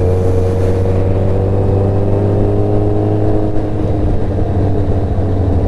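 Motorcycle engine running under a steady low rumble, its pitch falling slowly and evenly as the bike eases off and slows.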